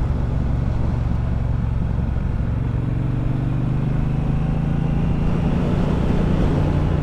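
Triumph Bonneville Bobber's 1200 cc parallel-twin engine running on the move, its note rising slowly from about halfway through as the bike picks up speed.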